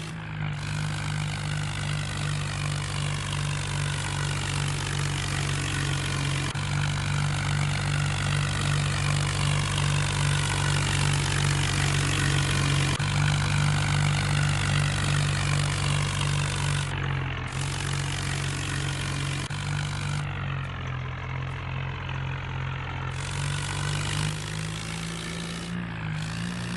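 HMT tractor's diesel engine running steadily, with a hiss over it that cuts out briefly about two-thirds of the way through.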